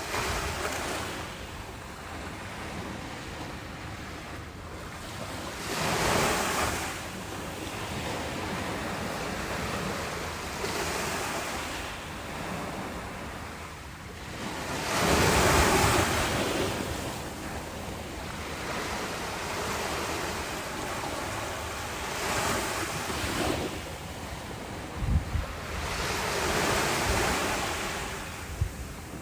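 Ocean waves breaking and washing ashore. A steady rush of surf swells into several surges, the largest about halfway through. A few brief low thumps come near the end.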